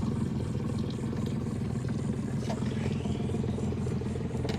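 Boat engine running steadily, a constant low hum that neither rises nor falls.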